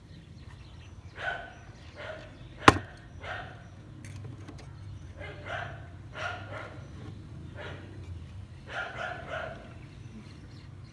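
A dog barking repeatedly in short, separate barks over a steady low hum, with one sharp click or knock a few seconds in that is the loudest sound.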